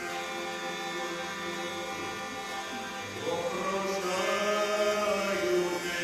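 Music: steady held accompaniment, joined about three seconds in by a singing voice holding a long, wavering note.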